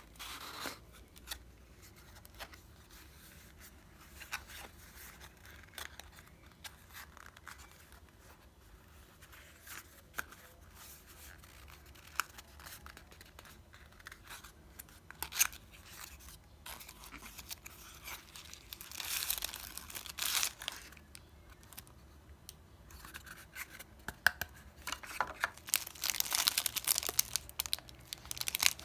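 Earbud packaging being handled and opened: rustling, crinkling and tearing of wrapping, with small clicks and taps. Louder crinkling comes around 19–20 seconds in and again from about 25 seconds on.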